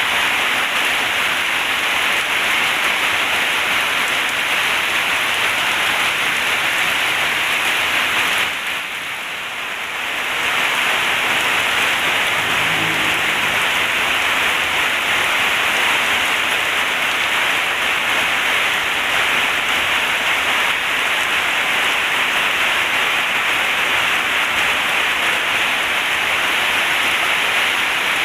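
Heavy rain falling steadily, a dense even hiss that dips briefly about nine seconds in.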